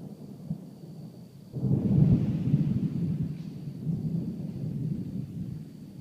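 Thunder from close lightning: a low rumble that suddenly grows much louder about a second and a half in, then rolls on and slowly fades.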